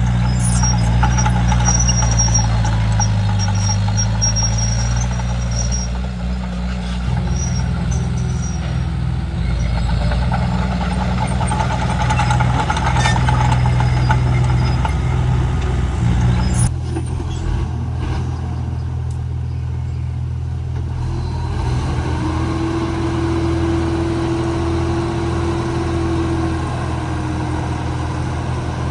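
Komatsu D31P crawler bulldozer's diesel engine running steadily as the dozer works. Its note changes about seven seconds in and again around seventeen seconds, and a short steady whine rises above it near the end.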